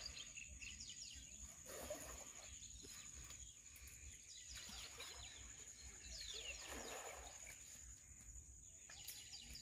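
Faint outdoor ambience: birds calling in quick, repeated falling chirps over a steady high-pitched hum.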